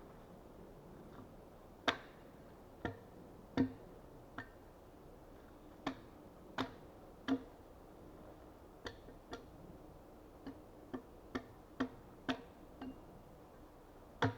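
A series of short, sharp wooden knocks at an uneven pace, some followed by a brief low ring, as timber is worked with hand tools.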